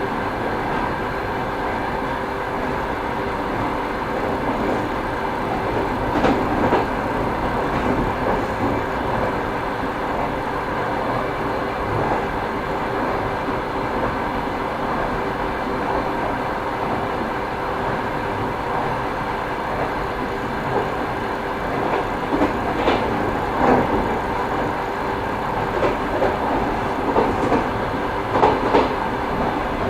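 Railway carriage wheels running over the rails with a steady rumble, knocking over rail joints in clusters about six seconds in, around 23 seconds in, and in a quicker run near the end.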